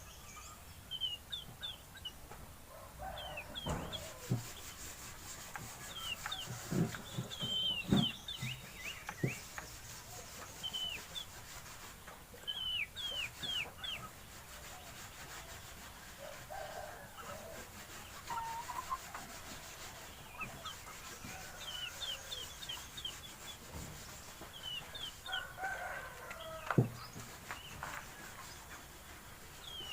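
Farmyard bird sounds: chickens clucking and a rooster crowing, mixed with many short, high, falling bird chirps and a few sharp knocks.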